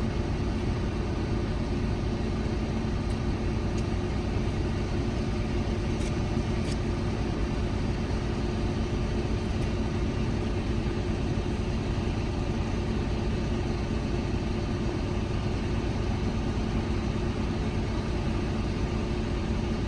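Volvo FH 280 truck's diesel engine idling steadily.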